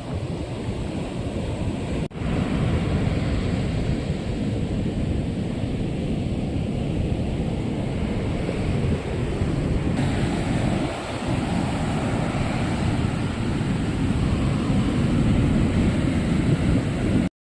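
Ocean surf on a beach with wind buffeting the microphone: a steady, heavy rushing rumble, with a momentary break about two seconds in.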